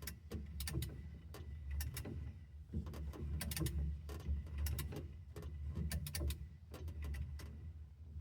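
Irregular light clicks and knocks, several a second, over a steady low hum.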